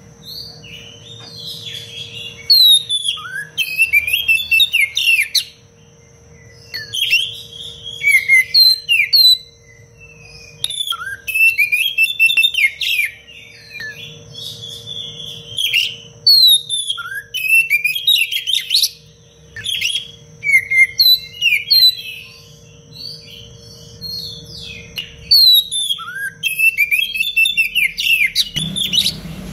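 Oriental magpie-robin (kacer) in full song: bursts of fast, closely packed, sharp whistled and chattered phrases, with short pauses between them, over a faint steady hum.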